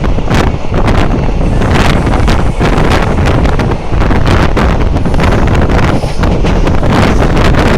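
Moving train running: a loud, continuous rush with rapid, irregular clattering, and wind buffeting the microphone.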